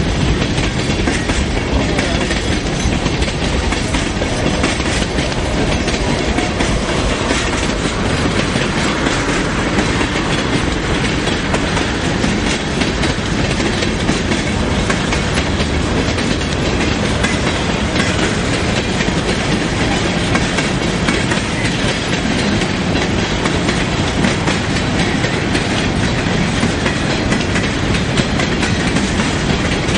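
Freight train of boxcars, empty centerbeam flatcars and covered hoppers rolling past, its steel wheels clacking over the rail joints in a steady, loud clatter.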